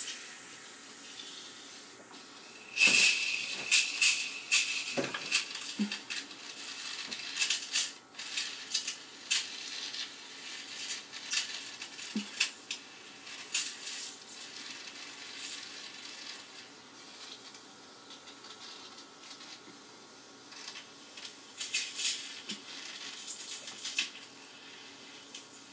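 Ear suction tube hissing in the ear canal, with irregular crackling and slurping clicks as it draws discharge from an infected ear with tympanostomy tubes. The crackling is loudest a few seconds in and again near the end.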